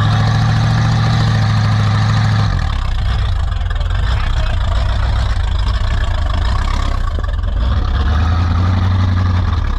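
Off-road truck engine running at low revs. Its pitch drops about two and a half seconds in and picks up a little again near the end.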